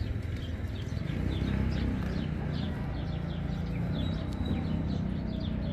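Small birds chirping in many short, quick calls scattered throughout, over a low steady rumble.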